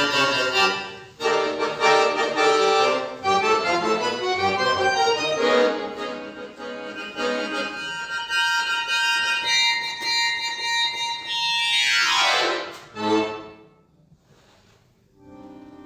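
Solo accordion playing dense sustained chords, then a fast falling sweep from high to low about twelve seconds in and a short chord. A pause of about two seconds follows before a new held note begins near the end.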